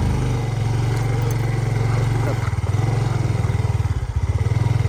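Yamaha PG-1's single-cylinder four-stroke engine running steadily while riding, with the engine note dipping briefly about four seconds in.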